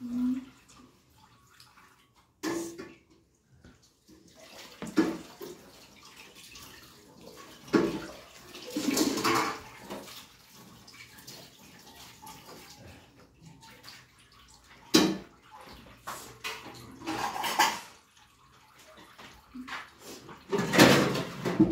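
Wet chewing and mouth sounds of a child eating rice and curry by hand, coming in short bursts every few seconds.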